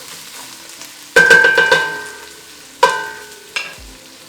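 Beef sizzling as it fries in a metal pot. Two loud metallic clanks ring out on the pot, one just over a second in and one near three seconds, with a lighter clank soon after.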